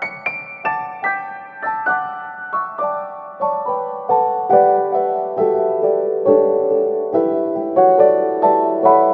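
Slow, gentle piano music: single notes struck one after another and left to ring, settling into a lower register partway through.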